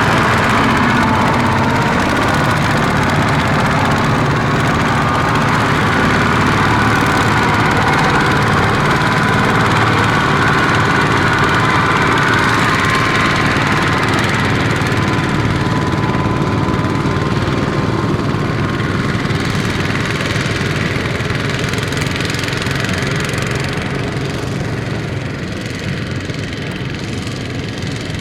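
Kubota ZT155 single-cylinder diesel engine of a small transport tractor running steadily, getting a little quieter near the end.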